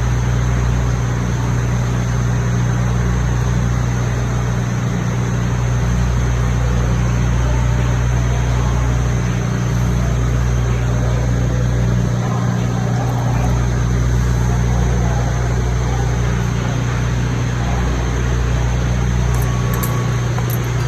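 Self-shielded flux-core arc welding with NR-305 5/64" wire: a steady, continuous hiss and crackle of the arc over a constant low electrical hum.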